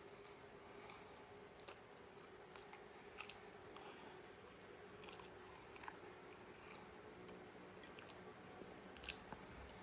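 Quiet chewing of a mouthful of apricot-filled croissant, with a few soft mouth clicks scattered through, over a faint steady hum.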